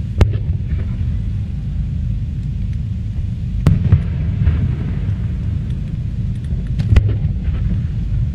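Fireworks shells bursting in a display: three sharp bangs spaced about three seconds apart, with fainter crackling after the middle one, over a steady low rumble.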